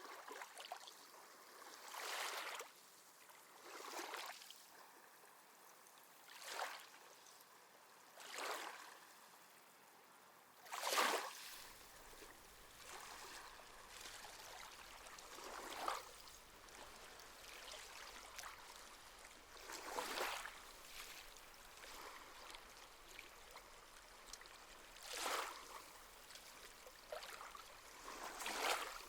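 Small sea waves lapping at the shore: short, soft splashes every few seconds over a faint wash of water. The strongest splash comes about eleven seconds in.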